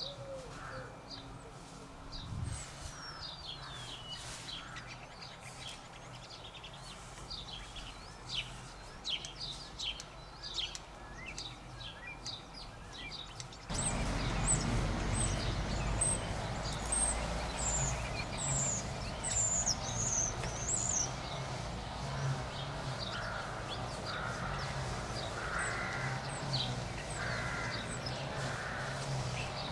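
Small garden birds chirping and singing in short high notes. About halfway through, a noisier background comes in, then a crow caws repeatedly, roughly one harsh call a second, over more high chirps.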